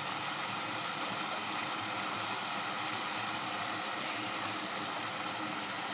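Potatoes and cauliflower with masala sizzling steadily in a pot, moistened with a little water to help them soften.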